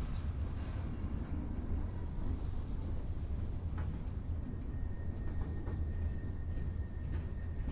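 Train rolling along the tracks: a steady low rumble with a few faint clicks, and a thin, steady high-pitched tone coming in about five seconds in.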